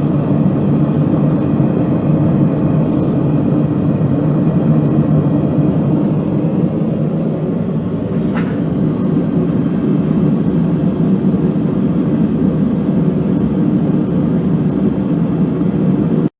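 Forge running with a steady, even rumble.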